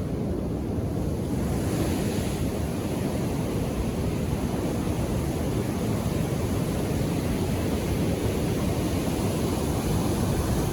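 Calm ocean waves washing onto a beach: a steady rush of surf, heaviest in the low range, with a slightly brighter wash about two seconds in.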